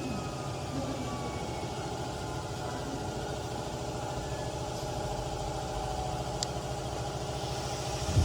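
CNC digital flatbed knife cutting machine running while cutting EVA foam: a steady mechanical hum with faint whines that slowly fall in pitch. A single sharp click about six and a half seconds in.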